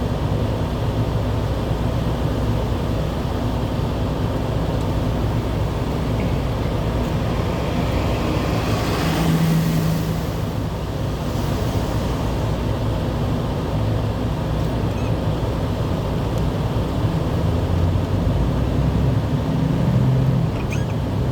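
Steady road and engine noise of a moving vehicle, with a brief swell of hiss about nine seconds in.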